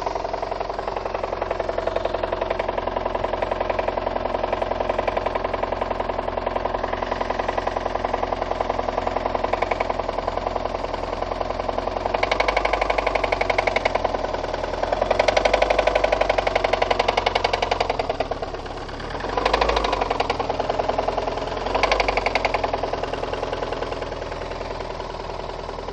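VAZ 2114 engine running with a rapid, steady knock, revved up around the middle and blipped twice more toward the end. The knock comes from worn-out connecting rod bearings on cylinders 2, 3 and 4, together with burnt valves.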